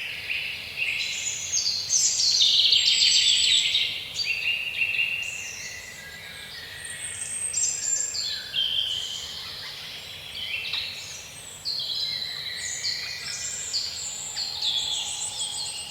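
Several birds singing at once, a dense chorus of quick overlapping chirps and trills, loudest about two to four seconds in.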